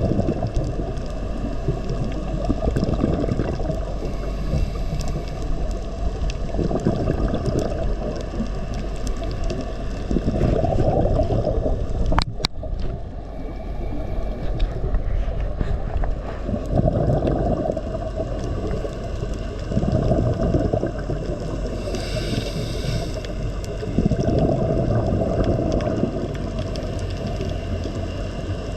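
Muffled, surging water noise, with a single sharp click about twelve seconds in and a brief hiss near the end.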